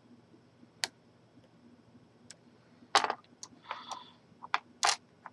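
Lock pick and tension wrench clicking and scraping inside a large Corbin padlock: a handful of sharp, irregular clicks, the loudest two about three and five seconds in, with a short rattle just before four seconds. The first pin is not setting.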